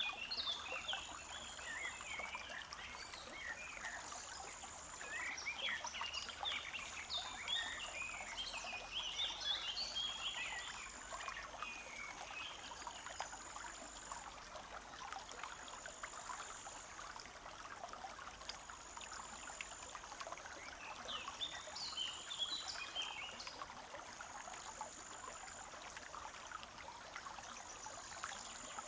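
Forest brook trickling steadily over stones. Birds chirp in quick runs through the first half and again briefly a little after the middle. A high thin note, about a second long, repeats roughly every two seconds.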